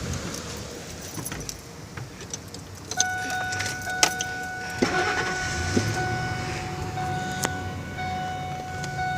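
Keys jangling, with clicks and knocks as someone gets into a pickup truck and works the key. From about three seconds in, a steady electronic tone from the truck sounds, breaking off briefly a few times.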